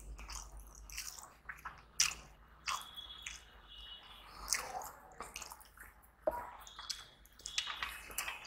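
Close-up mouth sounds of a man chewing a mouthful of turmeric rice eaten by hand: wet squishing with many short sharp lip and tongue clicks, and fingers gathering rice on a steel plate.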